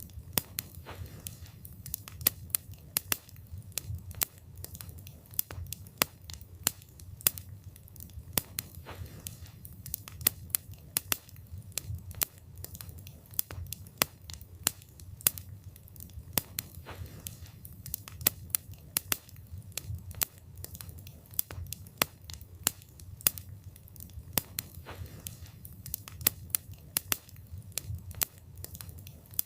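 Wood fire burning: irregular sharp crackles and pops from the burning wood, several a second, over a low steady rumble of the flames.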